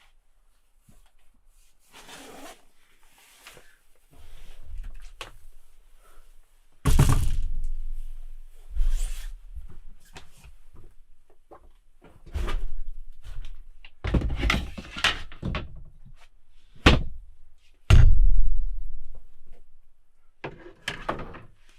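A series of heavy thumps and knocks, with rustling and handling noises between them. The two heaviest thuds come about seven seconds in and about eighteen seconds in.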